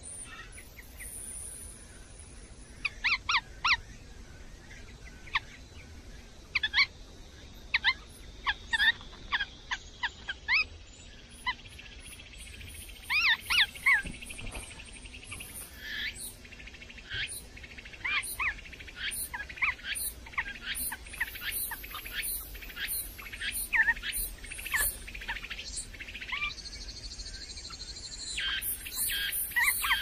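Small birds chirping: short, high calls that come singly and in quick clusters, growing more frequent in the second half.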